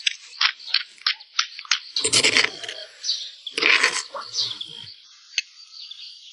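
Bird calls: a run of short high chirps about three a second, then two longer, harsher calls.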